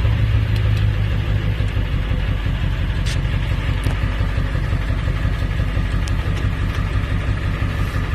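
1999 Ford F-350's 7.3 L Power Stroke turbo-diesel V8 idling steadily just after being started.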